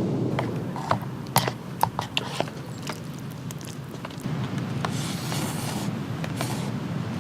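A scattered run of sharp clicks and small ringing clinks, thickest in the first couple of seconds, with a short hiss about five seconds in, over a steady wash of rain.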